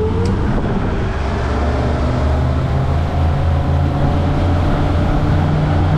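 Twin Suzuki outboard motors on a 25 ft Parker running steadily under way, a low engine drone over a rush of noise, their pitch creeping up slightly near the middle.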